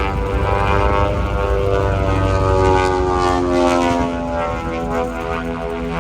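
Propeller airplane flying past, a loud engine-and-propeller drone whose pitch slowly falls as it goes by.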